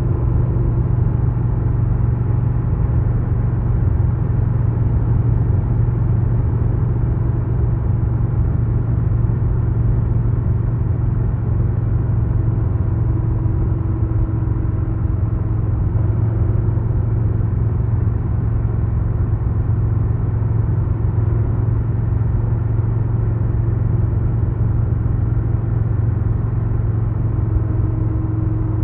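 2022 Harley-Davidson Low Rider S's Milwaukee-Eight 117 V-twin running steadily on the road, its low engine note holding with only slight shifts in pitch.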